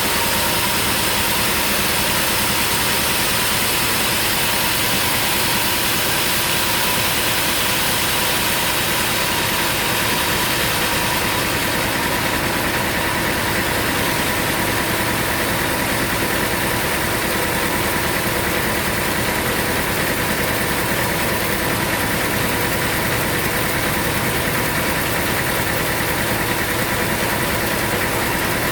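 An engine running steadily at an even speed, with a constant hum and no change in pitch.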